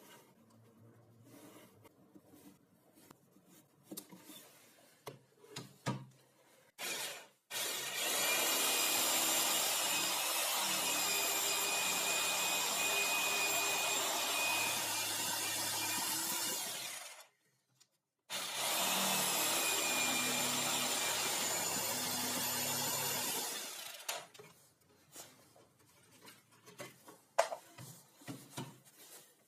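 A power saw cutting wood in two long steady runs, the first about nine seconds and the second about five, with scattered light knocks and clicks of handling before and after.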